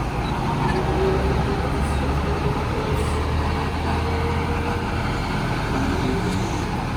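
Heavy diesel truck engine running steadily at low speed, a continuous low rumble.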